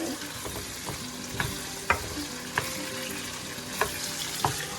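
Onions frying in oil and butter in a cooking pot, sizzling steadily, while a spoon stirs them and knocks against the pot about five times.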